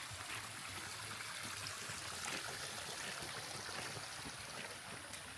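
Water running steadily, like a small stream or irrigation channel flowing.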